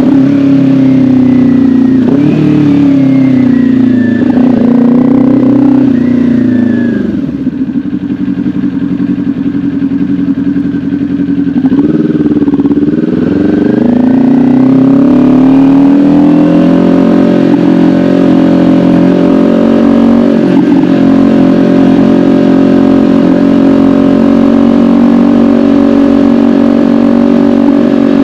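Kawasaki Ninja 400 parallel-twin engine under way, its pitch dipping and recovering a few times in the first seven seconds as it shifts through gears. It eases off and quietens for a few seconds, picks up again about twelve seconds in, then holds a steady cruise.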